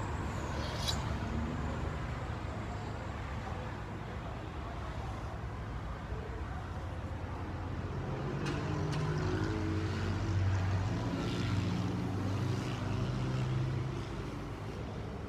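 Steady low rumble of motor vehicles, with one vehicle's engine growing louder about halfway through and easing off near the end.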